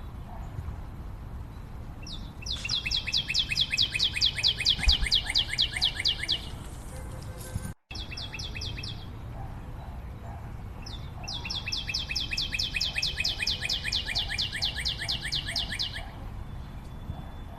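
A bird singing a long, rapid trill of evenly repeated high notes, twice, each about four seconds long, with the sound cutting out for a moment between the two.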